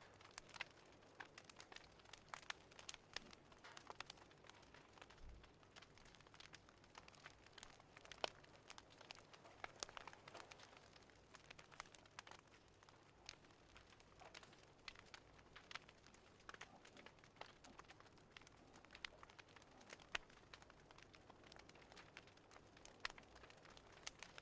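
Faint wood fire crackling: irregular small pops and snaps over a soft hiss.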